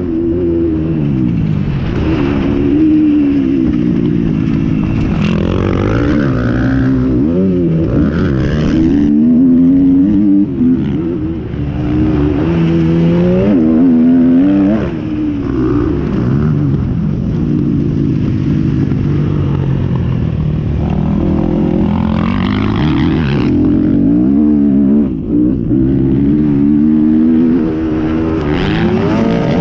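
Motocross bikes racing, their single-cylinder engines revving hard, with the pitch climbing and dropping again and again as they accelerate and shift. At times several engines are heard at once.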